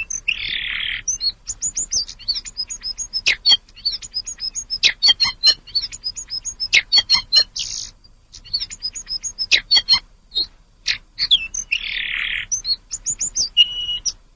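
A tledekan (tledekan gunung) songbird singing a fast, varied song of short high chirps and whistled notes, broken twice by a harsh buzzy rasp near the start and again near the end.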